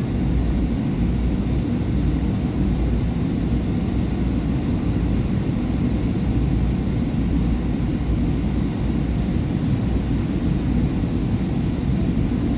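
Steady low rumbling noise inside a SEPTA Market-Frankford Line railcar standing at a station with its doors open: the stopped car's running equipment and the station's ambience.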